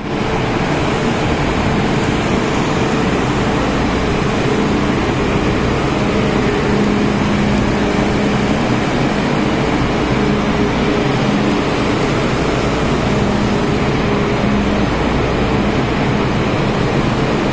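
Steady running hum of an MTR M-Train standing at an underground platform with its doors open, its air-conditioning and onboard equipment running, with a couple of faint low tones in it.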